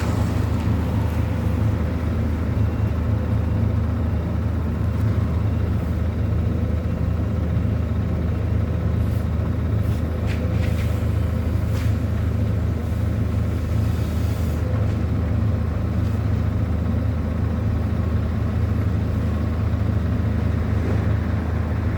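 A large engine running steadily at a constant low drone, with a few faint clicks in the middle.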